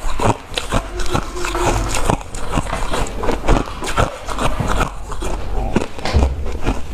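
Ice being bitten and chewed close to the microphone: a quick run of sharp, crackling crunches, several a second.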